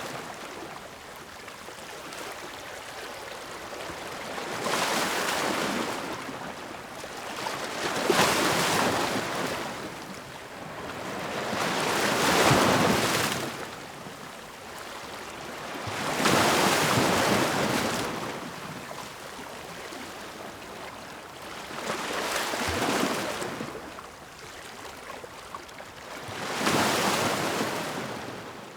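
Ocean waves breaking and washing in, a hissing surf that swells and ebbs about six times, every four to five seconds.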